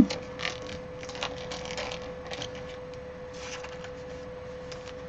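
Trading cards being handled and sorted: scattered light clicks and rustles of card stock and plastic sleeves, over a faint steady hum.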